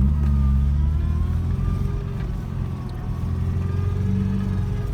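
Car engine running while driving, with a steady low hum whose pitch sags slightly about two seconds in and then comes back up.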